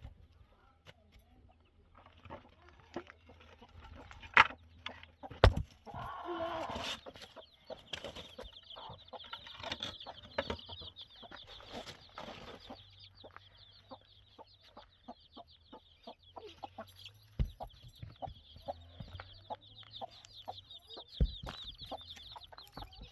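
Chickens clucking, with sharp knocks now and then, the loudest about four and five seconds in, and a high rapid chirring from about six seconds in.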